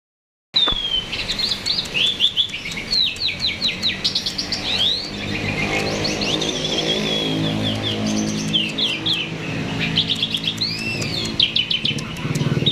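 A jalak (starling) in full, nonstop song: rapid chirps, whistles and quick downward-sweeping notes. A low steady hum runs under the song through the middle.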